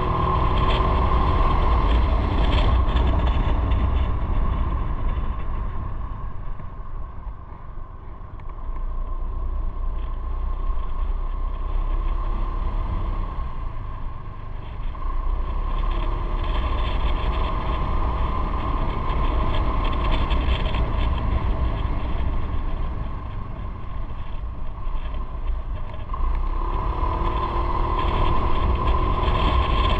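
Motorcycle riding on the road, heard from on the bike: engine and wind noise that ease off to a low point about eight seconds in and build up again from about fifteen seconds.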